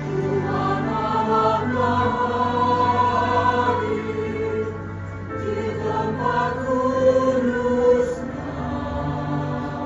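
Church choir singing a hymn in harmony, with sustained low notes of an accompaniment underneath.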